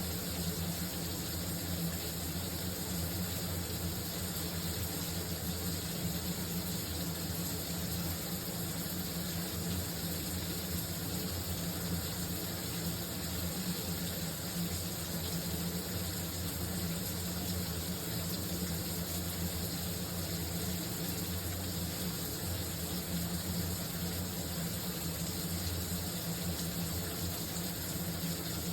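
Shower running, a steady, unchanging rush of falling water.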